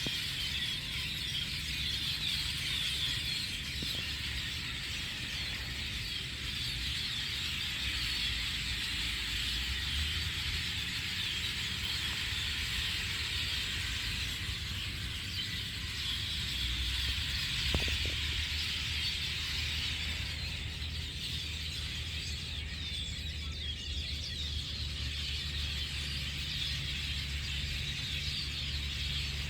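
A large flock of birds chirping all at once, a dense unbroken chatter that thins slightly in the last several seconds. A steady low rumble runs underneath, and a single brief knock comes about eighteen seconds in.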